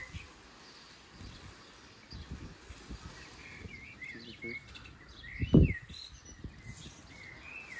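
Small birds chirping repeatedly, short high calls again and again, with one dull thump a little past two thirds of the way through.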